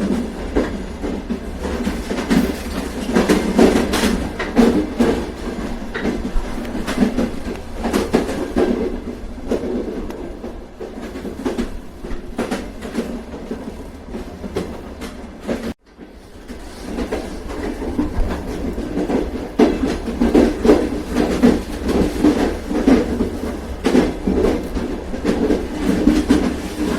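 A train running along the track: a steady rumble with the wheels clacking over rail joints. The sound cuts out abruptly for an instant about sixteen seconds in, then swells back.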